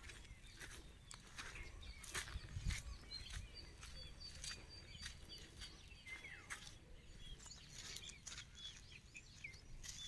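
Small birds chirping in short, scattered calls, with one thin high whistle held for about two seconds near the middle. Soft clicks and crunches of footsteps on dry ground, and a low rumble, sit beneath the calls.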